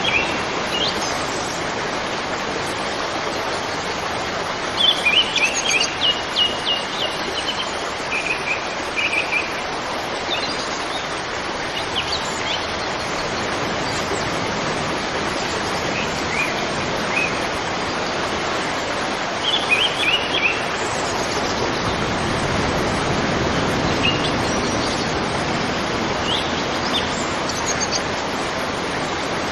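River water flowing over rocks, a steady rushing. Small birds chirp in short quick runs of high notes now and then, most clearly about five seconds in and again around twenty seconds.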